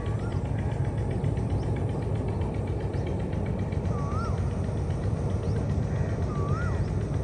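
A bird repeating a clear whistled note that rises and then falls, three times a couple of seconds apart, over a steady low rumble.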